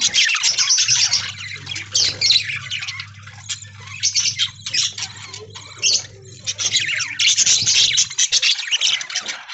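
A flock of budgerigars chattering with rapid chirps and squawks, busiest at first and again from about seven seconds in, with a thinner spell in between. A faint low hum runs underneath and stops shortly before the end.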